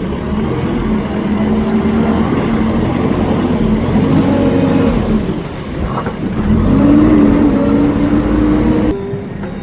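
Heavy diesel engine running under load and revving up and down, its pitch rising and falling several times, most strongly about seven seconds in.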